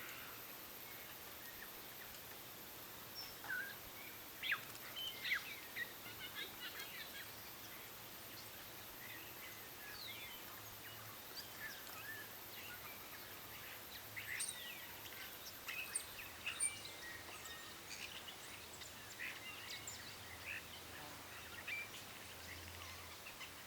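Scattered short bird chirps and calls over a faint steady background hiss, busiest around the fourth to sixth second and again from about the fourteenth second on. A thin high-pitched whine runs underneath and stops about two-thirds of the way through.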